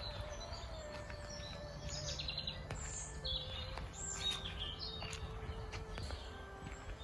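Small songbirds chirping and trilling here and there, over a steady low rumble and soft background music of long held notes.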